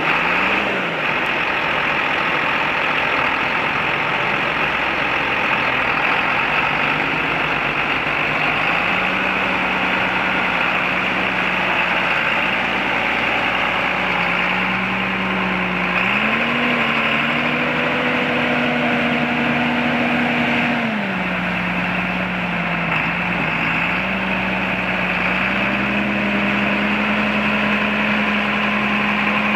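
John Deere 8300 tractor's diesel engine running steadily at idle; about halfway through the revs rise, hold for several seconds, then drop back to idle, and they lift slightly again near the end.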